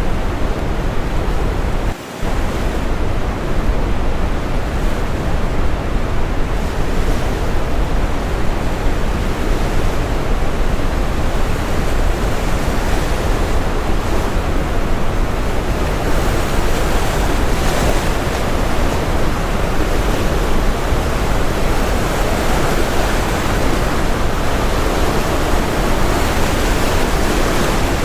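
Steady brown noise layered with ocean waves washing and breaking. Near the start the level drops for a moment, and in the second half the surf grows brighter and fuller.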